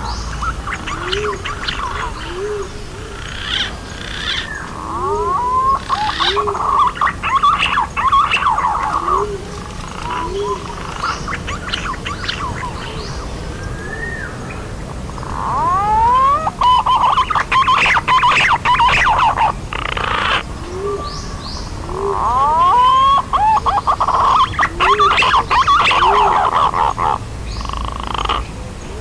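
Green pigeons (punai) calling: three long spells of dense rising whistles and chatter, with short low hooting notes repeating about once a second underneath.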